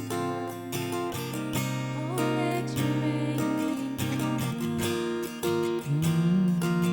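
Acoustic guitar strummed in steady chords, an instrumental stretch of worship-song accompaniment.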